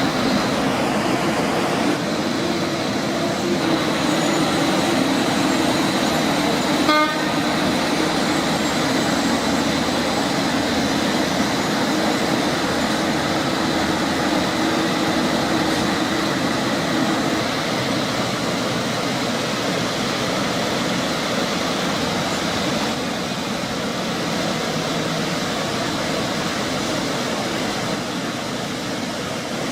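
Heavy truck engine running steadily under load, with a single short click about seven seconds in.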